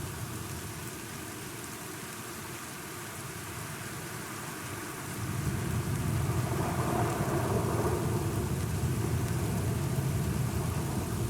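Steady rain falling, with a low roll of thunder swelling about five seconds in and rumbling on.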